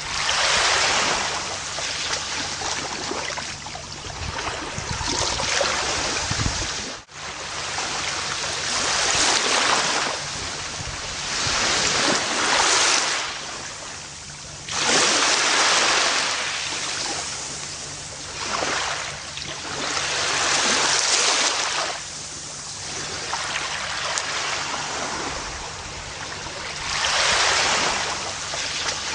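Gentle ocean waves washing onto a beach, the surf swelling and falling back every few seconds, with a brief sudden gap in the sound about seven seconds in.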